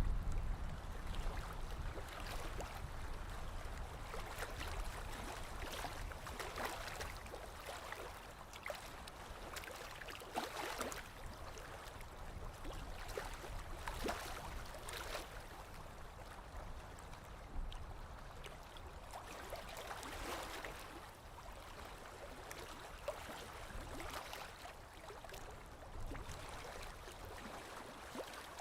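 Small lake waves lapping against the shore, an irregular wash of water with soft splashing surges every few seconds.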